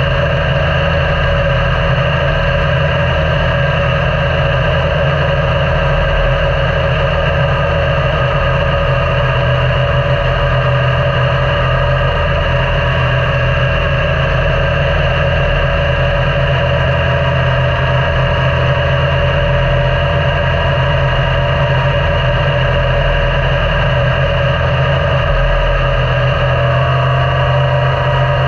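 Yamaha Niken's 847 cc inline-three engine running at a fairly even speed, heard from the moving bike over a strong low rumble of wind on the microphone.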